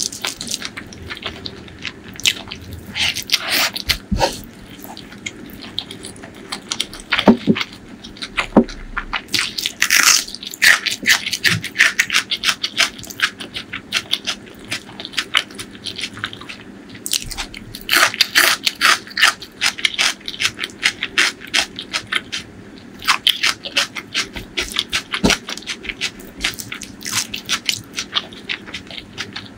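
Close-miked eating sounds from a mouthful of chicken liver and gizzard curry with rice, raw shallots and green chillies: crunching and chewing with wet mouth clicks, coming in irregular bursts.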